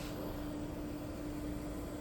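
Steady low hum with a hiss behind it, from an Epson L3256 inkjet printer still working through its start-up after a print-head replacement, before it settles into standby.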